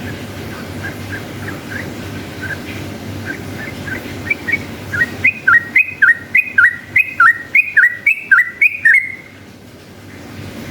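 Yellow-vented bulbul singing a long rolling 'ropel' series: soft whistled notes that build into a loud, rapid run of repeated hooked two-part notes, about two and a half a second, stopping suddenly about nine seconds in. A steady low hum runs underneath.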